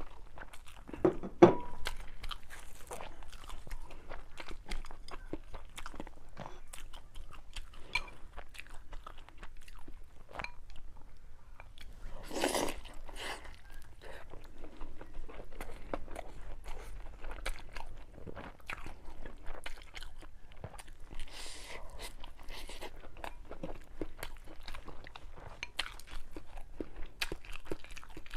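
Close-miked eating: a person biting and chewing, with many small crunchy, wet clicks. There is a louder burst about a second and a half in and another around twelve seconds.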